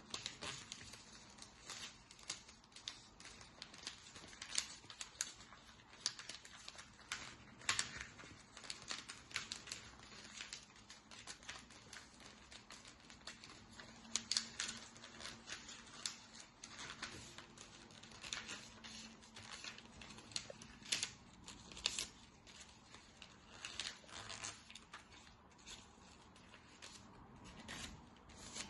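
A sheet of paper being handled and folded, with irregular crisp crackles and rustles as the folds are pressed and creased.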